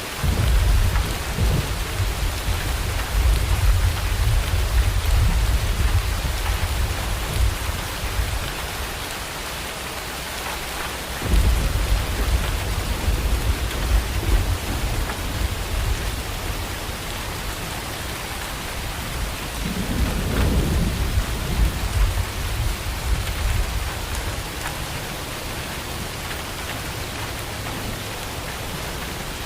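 Steady rain falling, with three rolls of thunder rumbling over it: the first breaks at the very start and rolls for about eight seconds, the second breaks about eleven seconds in and rolls for about eight seconds, and a shorter third comes about twenty seconds in.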